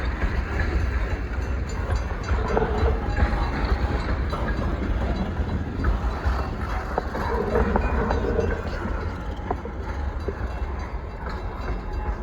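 Loaded coal train rolling past: a steady rumble of wheels on rail with scattered clicks and brief squeals, easing off a little near the end.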